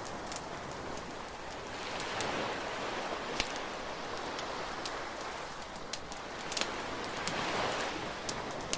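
Beach bonfire crackling with scattered sharp pops, over the wash of surf that swells and fades twice.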